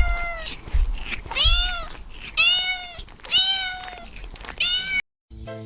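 A cat meowing over and over: high, arching meows about once a second, five in all.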